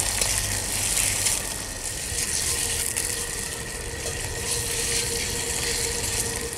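Chicken strips sizzling in hot oil in a carbon-steel wok as a metal spatula stirs them and scrapes the pan, over the steady rush of a gas wok burner turned up high.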